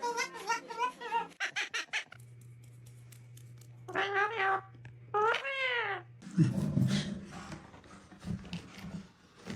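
Meow-like calls from a pet animal: a quick run of chattering, laugh-like notes, then two drawn-out calls, the second arching up and falling. About six seconds in comes a loud bout of rustling and knocking noise.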